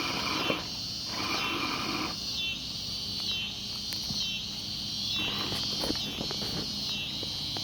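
Chorus of insects chirping, a high steady trill that swells and dips about once a second.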